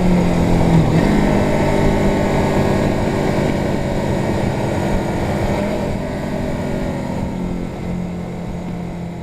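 Suzuki GS 500's air-cooled parallel-twin engine running steadily under way, with wind rushing over the bike. The sound grows gradually quieter through the second half.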